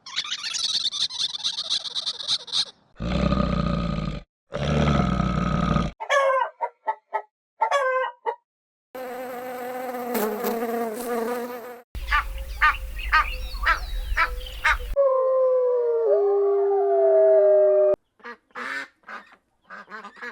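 A run of different animal calls spliced one after another with abrupt cuts and short gaps: a buzzy high call, two long harsh calls, quick repeated chirps, a long pitched call, a pulsing series of calls, then sliding tones and a few short calls near the end.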